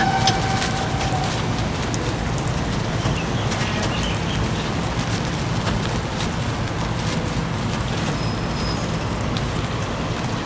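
Steady rumble of road traffic and an idling vehicle engine, with an even background hiss; the siren is not sounding.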